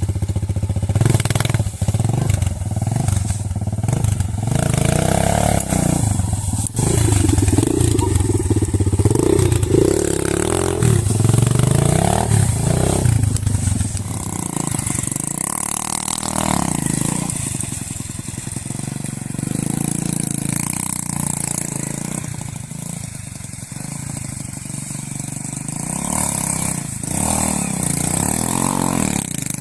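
Off-road motorcycle engine revved up and down again and again for about the first half, then running at lower revs.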